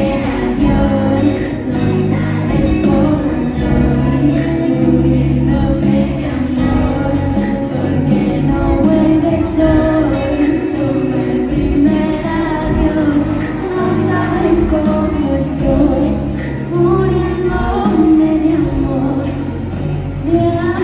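Live pop song played by a band with a woman singing the melody over steady drums and bass.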